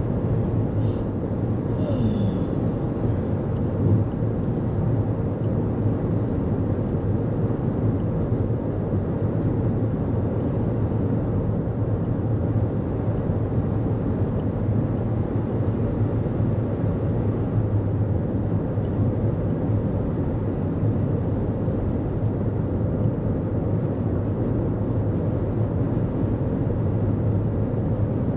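Steady road noise of a 2024 Toyota Corolla Cross cruising at highway speed: tyre and engine rumble with a low hum. A short faint sound about two seconds in.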